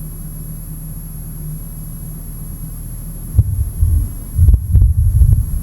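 A steady low hum, then from about three and a half seconds in, loud irregular low thumps and rumbling.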